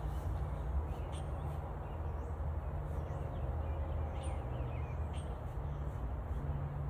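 A low, steady rumble with a few short, high bird chirps over it.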